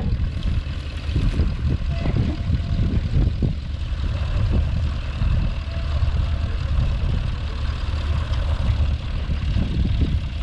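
Vintage tractor engine running steadily with a low rumble.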